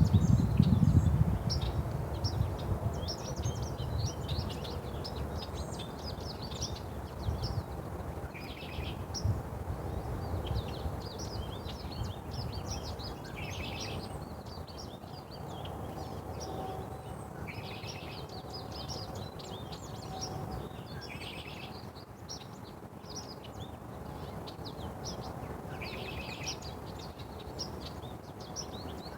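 Small birds chirping and twittering many times over, with brief bursts of rapid calls every few seconds. A low rumble is loudest at the start and fades away within the first couple of seconds.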